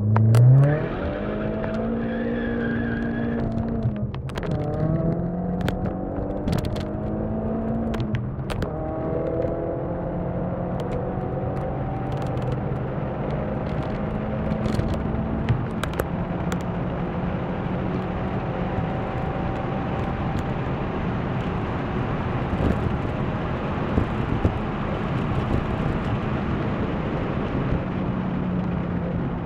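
Tuned VW Golf Mk4 GTI turbocharged engine, with a 3-inch downpipe and cat-back exhaust, pulling at full throttle under hard acceleration. The pitch climbs quickly through the first gears, with upshifts about 4 and 8½ seconds in, then rises more slowly through the higher gears. A few sharp clicks sound during the run.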